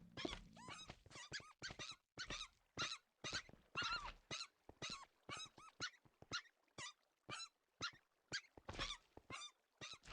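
Fox giving a rapid series of short, high, squeaky yelps and whines, several a second.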